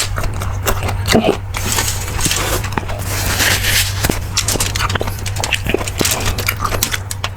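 Close-miked eating sounds of beef bulalo: wet chewing and smacking, with many short clicks and a longer noisy stretch about two to four seconds in, over a steady low hum.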